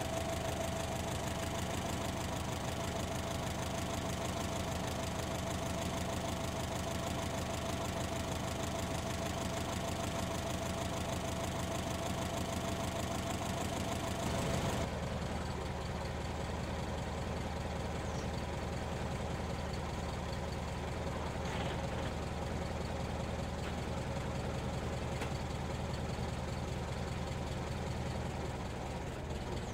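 1919 Chevrolet 490's four-cylinder overhead-valve engine idling steadily, running with no valve cover so its rocker arms, springs and pushrods are exposed.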